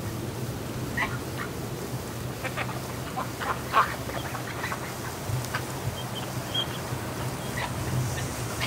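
Domestic ducks quacking, many short scattered calls from a flock, over a steady low hum.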